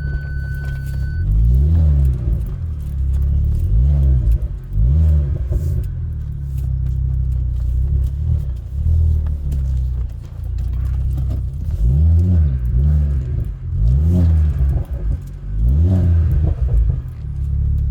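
Ford Focus ST engine under way, revving up and easing off several times, its pitch climbing and falling in repeated sweeps.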